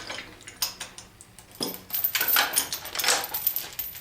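Steel lifting chain clinking and rattling in short bursts as it is unhooked from an engine on an engine stand.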